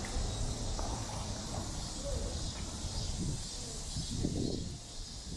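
Outdoor walking ambience: a steady high-pitched hiss over a low rumble, with faint voices of passersby.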